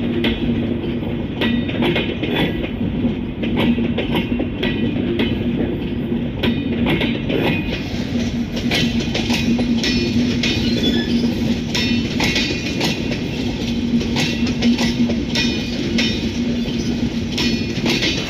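A train running on the rails, its wheels clacking over rail joints in an irregular stream of sharp clicks over a steady low hum, with some high ringing from wheel and rail.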